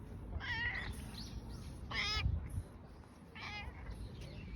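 Domestic cat meowing: three short meows spaced about a second and a half apart, with fainter ones between.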